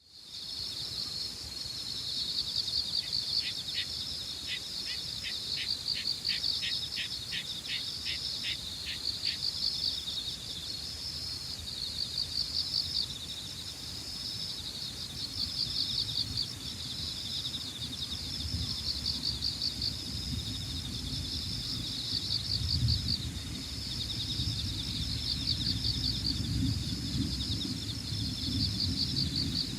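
Evening insect chorus: a steady, rapidly pulsing high chirring throughout. Between about three and nine seconds in, a run of short ticks at about two a second sounds over it. Low wind rumble grows stronger in the second half.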